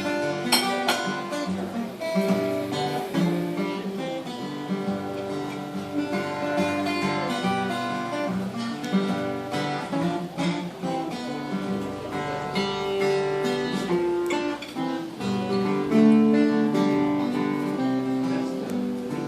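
Acoustic guitar playing alone, a run of plucked and strummed notes forming the instrumental introduction to a gospel blues song.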